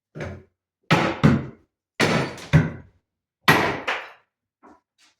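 Heavy knocks and thuds from old furniture being taken apart: about six hard blows in under four seconds, coming in pairs, then a faint knock near the end.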